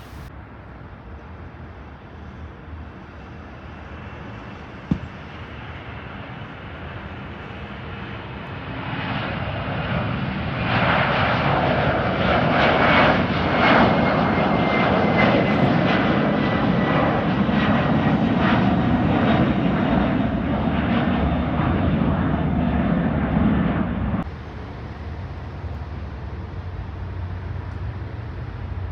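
Jet airliner engines growing louder for a few seconds, then loud and steady for about fourteen seconds with a faint falling whine as the aircraft passes. The sound then drops suddenly to a quieter, steady rumble.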